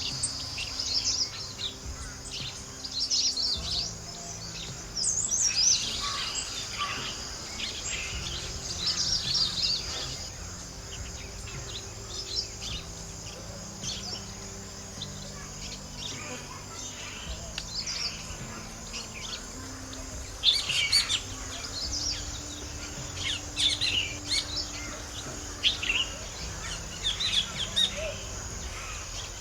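Small birds chirping and calling, many short high calls scattered throughout, with a steady high insect buzz under them for roughly the first ten seconds.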